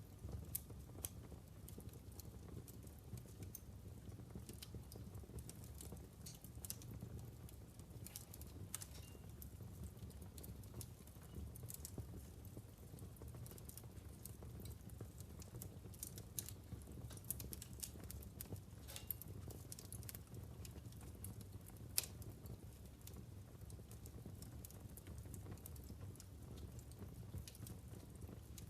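Wood fire burning in a fireplace: irregular crackling with scattered sharp pops over a low steady rumble of the flames, one louder pop about 22 seconds in.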